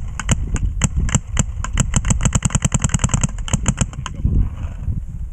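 Electronic paintball marker firing a string of shots, spaced at first, then speeding up to about ten a second. It stops about four seconds in, over a steady low rumble.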